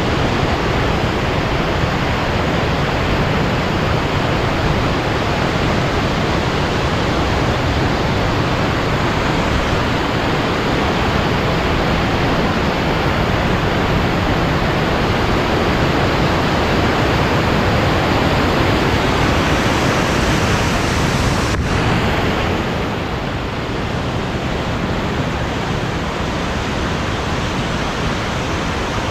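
Loud, steady rush of water pouring through the canyon gorge, like a waterfall, with no distinct tones. About two-thirds of the way through there is a faint click, and the rush is slightly quieter after it.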